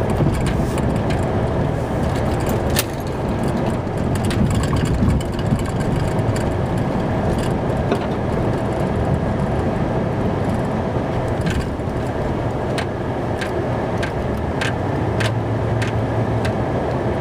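Plow truck's engine running steadily while it pushes snow, heard from inside the cab, with scattered sharp clicks and knocks, several close together in the second half.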